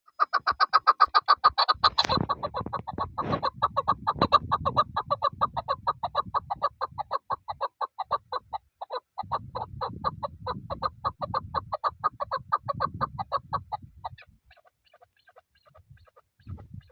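Chukar partridge calling: a long, fast run of repeated clucking notes, several a second, that thins out to scattered fainter notes near the end.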